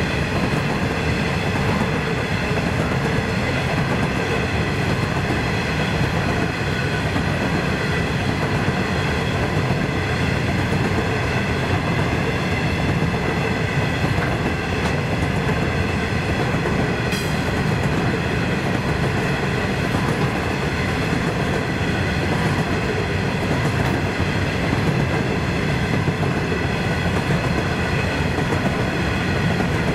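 Coal train of hopper wagons rolling steadily past a level crossing, its wheels clattering and rattling on the track. Over it the crossing's electronic warning bell rings without a break, heard as steady high tones.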